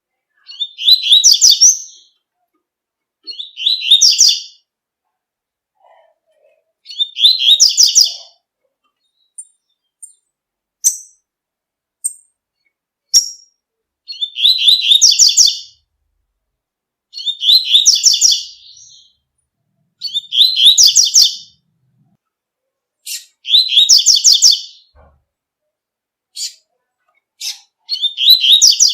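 Double-collared seedeater (coleiro) singing its tui-tui song: about eight rapid, high warbled phrases of one to two seconds each, repeated every few seconds. A few short single chirps come between them around the middle.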